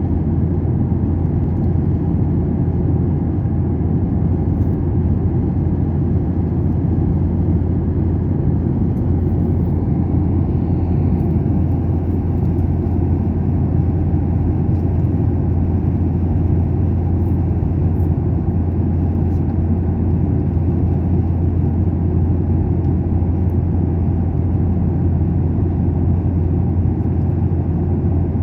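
Steady low roar of an airliner cabin: engine and air rumble, unchanging throughout.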